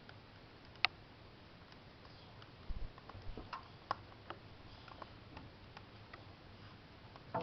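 Sparse sharp cracks and clicks, typical of a wood fire crackling in a fireplace built from steel truck wheel rims, with a brief low thump about two and a half seconds in.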